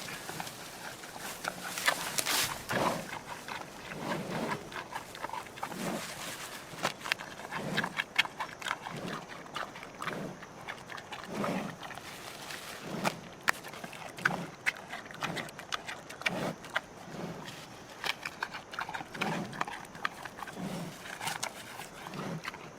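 Giant panda calling: short, low calls repeated about once a second, with sharp clicks in between.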